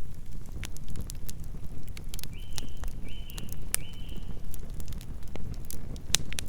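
Campfire burning: a low, steady rumble with frequent sharp crackles and pops of burning wood. A short, high, even-pitched call sounds three times in quick succession about two seconds in.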